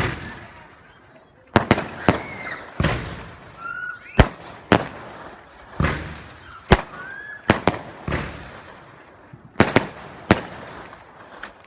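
A Celtic 'Chemical Romance' firework cake firing: a string of sharp bangs at uneven intervals, some in quick pairs, with rushing whooshes of shots between them.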